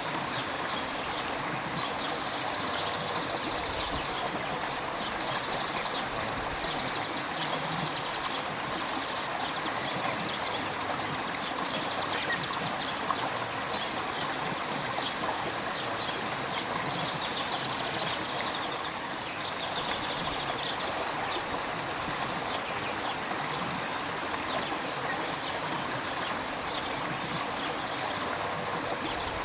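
River water flowing, a steady rushing and babbling without pause.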